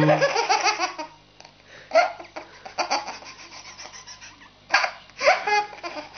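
Baby laughing hard: a rapid run of belly laughs in the first second, then shorter bursts of laughter about two, three and five seconds in.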